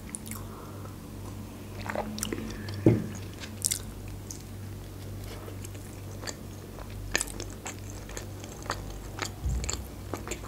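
Close-miked chewing of a soft tortilla wrap with the mouth closed: small wet clicks and smacks, with a single louder knock about three seconds in. A faint steady low hum runs underneath.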